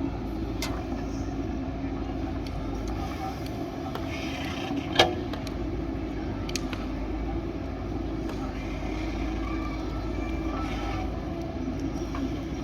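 JCB backhoe loader's diesel engine running steadily, with a single sharp knock about five seconds in.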